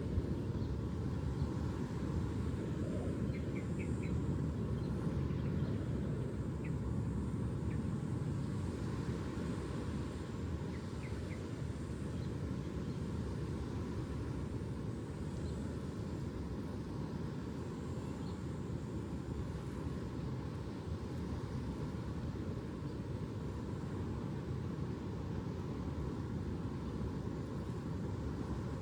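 Steady low rumbling outdoor noise, with a few faint short chirps in the first ten seconds or so.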